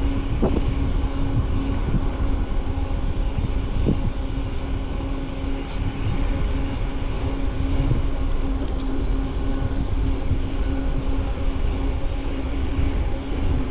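Riding noise from a bicycle picked up by a camera mounted on it: wind on the microphone and tyre rumble, with a steady hum throughout and a few light rattles.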